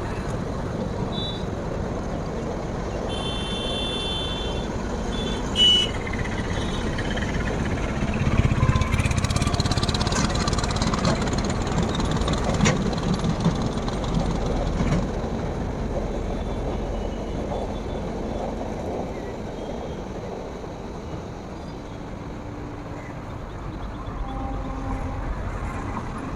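Outdoor railway-station ambience: steady vehicle noise with a louder rumble building for several seconds about eight seconds in, and brief high-pitched beeps about three to five seconds in.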